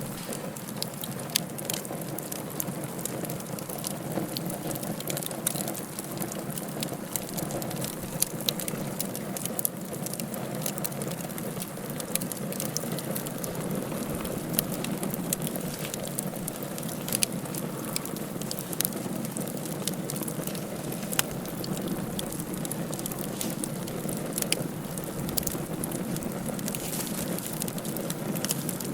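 Wood fire burning in a fireplace: a steady hiss with irregular sharp crackles and pops throughout.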